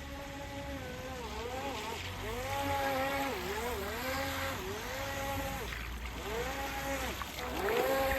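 Electric motor whine of a Volantex Vector SR48 radio-controlled speedboat running on the water, its pitch dropping and rising again several times as the throttle is eased and opened.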